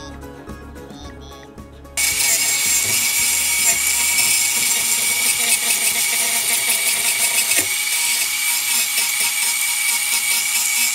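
Delta ShopMaster benchtop bandsaw cutting a walnut spoon blank: a loud, steady rushing saw noise with a thin high whine. It starts abruptly about two seconds in, after a quieter low hum.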